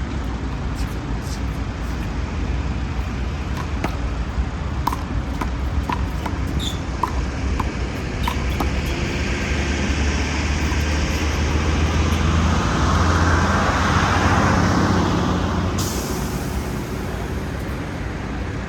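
Steady road-traffic rumble, with a vehicle passing that swells louder and fades in the second half. A handful of sharp knocks sound in the first half.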